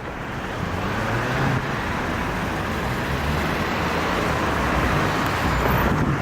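A heavy vehicle towing a Scania city bus passes: a steady diesel engine hum under road and tyre noise that grows gradually louder.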